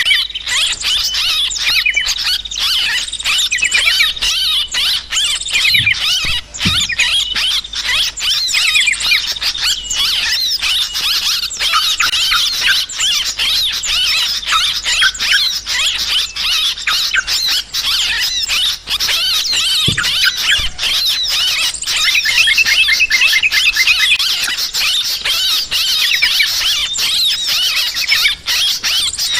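A dense chorus of yellow-vented bulbuls (trucukan) chattering noisily, many calls overlapping in quick, bubbly phrases without a break: the agitated flock calling used as a bird-trapping lure.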